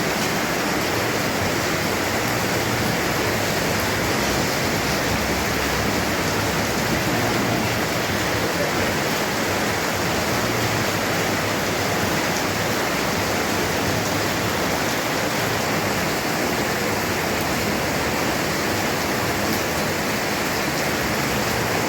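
Heavy rain pouring down, a steady loud hiss with no letup.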